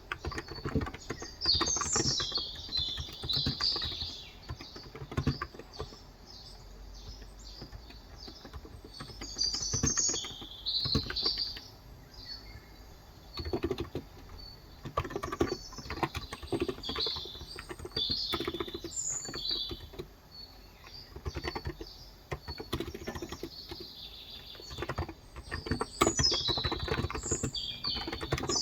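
Typing on a Cox Endeavor electrostatic-capacitive (Topre-style) tenkeyless keyboard with light 35 g switches, in bursts of quick keystrokes with short pauses. Birds chirp in short, high, warbling phrases several times.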